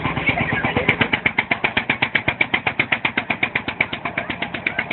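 An engine running with an even, rapid pulse of about ten beats a second, as from a heavy machine or tractor engine.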